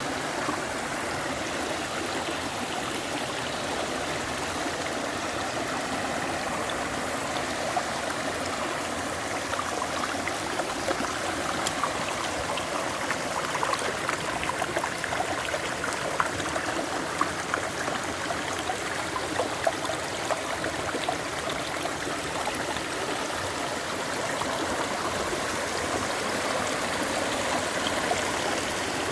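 A clear stream running, a steady rush of water with small splashing sounds scattered through it, most of them around the middle.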